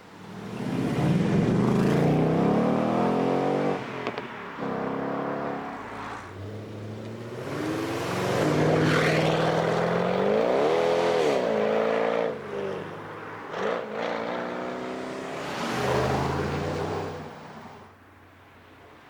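Car engines accelerating hard with loud exhaust, the pitch climbing and then dropping at each shift or lift, in three separate pulls.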